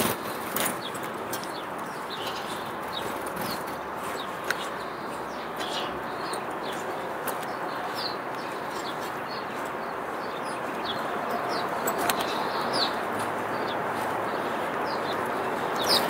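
Small birds chirping in short, high, falling notes, scattered and more frequent in the second half, over a steady outdoor background hiss with a few faint clicks.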